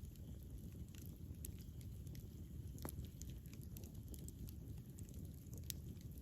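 Wood fire burning: a steady low rumble of the flames with scattered sharp crackles and pops, the loudest a little before three seconds in and again near the end.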